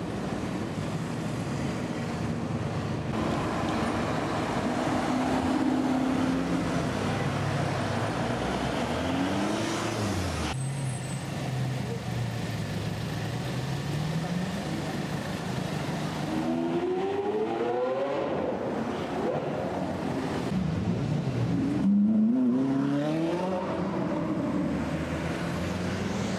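Supercar engines accelerating through city traffic: several runs of revs climbing steeply and breaking off at gear changes, the strongest about 16 and 22 seconds in, over a steady traffic hum.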